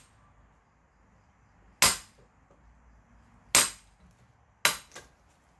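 Firewood being split by hand: three sharp cracking strikes, each dying away quickly, the last followed by a softer knock.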